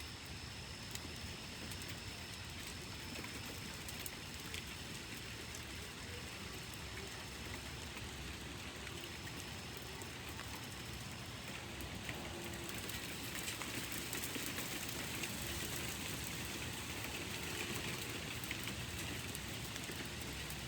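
Steady rain falling, with scattered drip ticks. It gets somewhat heavier about two-thirds of the way through.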